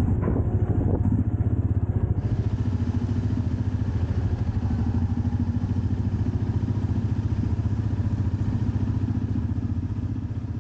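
Royal Enfield Meteor motorcycle engine running steadily, with an even low pulsing beat and no revving.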